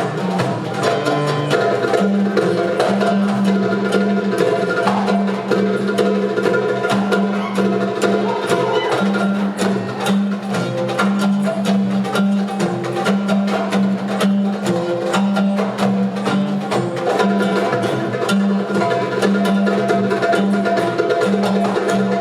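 Ensemble of hand drums, darbukas among them, playing a fast, dense rhythm over a steady held low tone.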